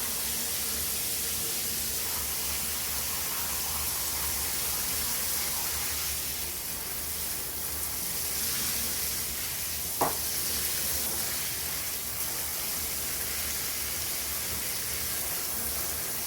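Shower spray running steadily, a constant hiss of water falling onto the bird and the shower floor. A single short click or knock about ten seconds in.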